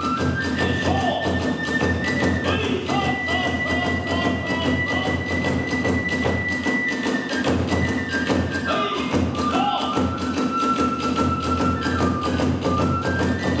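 Kagura hayashi accompaniment: a bamboo transverse flute plays long held high notes, stepping up and down in pitch, over rapid, continuous beating of taiko drums and small hand cymbals.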